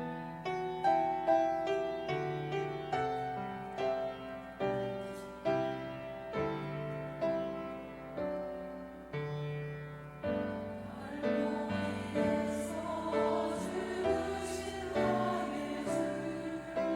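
Piano playing a slow introduction in separate struck notes and chords, then a church choir begins singing over the piano about ten seconds in.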